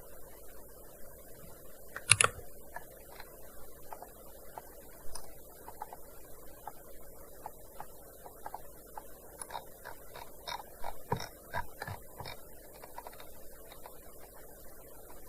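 Typing on a gaming keyboard: irregular key clicks, with one much louder keystroke about two seconds in and a quicker run of strokes about two-thirds of the way through.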